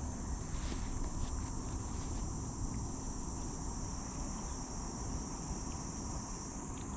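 Steady, high-pitched chorus of insects trilling without a break, over a low rumble.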